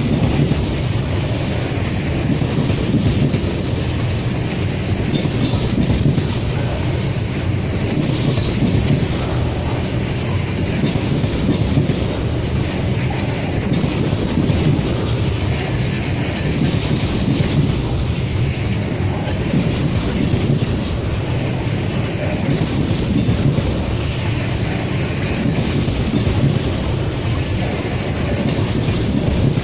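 Crude oil tank cars of a freight train rolling past, with a steady rumble of steel wheels and clickety-clack over the rail joints.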